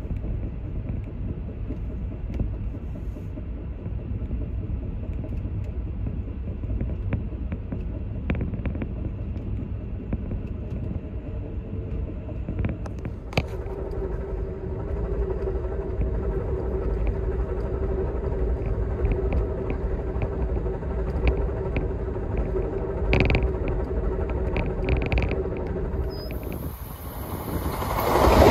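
Steady low rumble of an Amtrak Superliner passenger car running on the rails, heard from inside, with occasional faint clicks and a steady hum joining about halfway. Near the end the sound switches to an outdoor hiss and a rising rush as a train approaches on the adjacent track.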